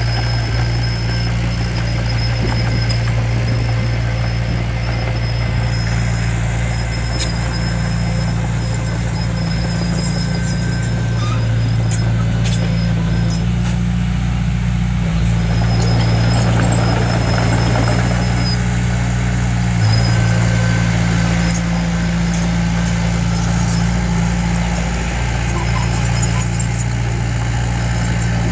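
Diesel engine of heavy earthmoving equipment running steadily under light, even load, with a thin high squeal that comes and goes.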